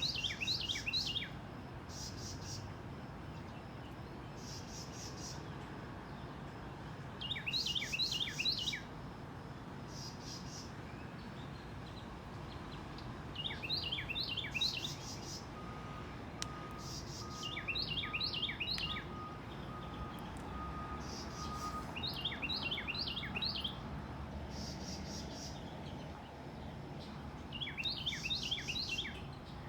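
A songbird repeating a short song of about half a dozen quick down-slurred notes, once every five or six seconds. Insects trill in pulsed bursts behind it.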